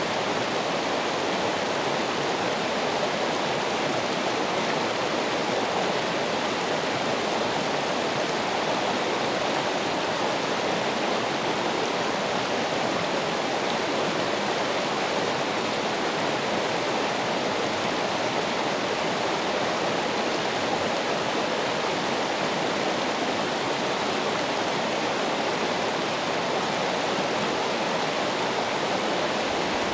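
Running water: a steady, unbroken rush like a stream or small waterfall.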